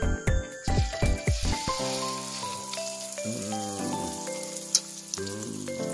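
Hot cooking oil sizzling in a wok as a batter-coated piece of fruit is lowered in to fry, over background music with a beat at first and then long held notes.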